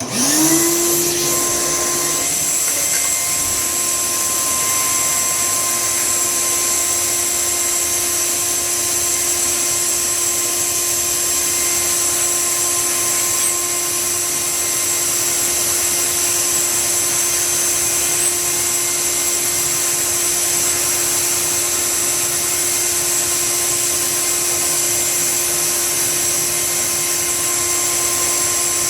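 An electric blower motor switches on, its whine rising to a steady pitch within about half a second, then runs steadily with a constant rush of air.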